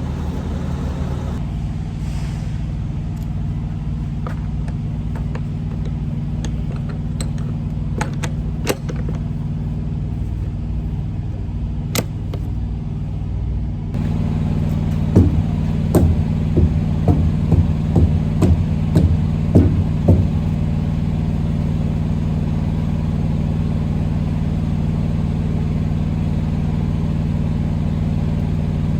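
Tractor-trailer's diesel engine running steadily, a little louder about halfway through. This is followed by a string of about ten sharp knocks over some five seconds.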